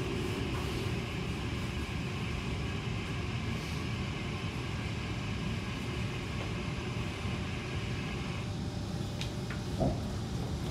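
Cabin rumble of a Kawasaki C151 MRT train slowing into a station. A higher-pitched running noise over the rumble cuts off about eight seconds in as the train comes to a stop, and a couple of faint clicks follow near the end.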